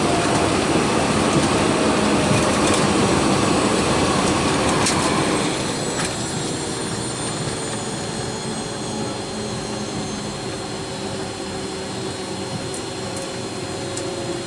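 Hawker 800 business jet's twin Garrett TFE731 turbofans running, a steady rushing noise with a faint steady whine. It drops somewhat in level about five and a half seconds in.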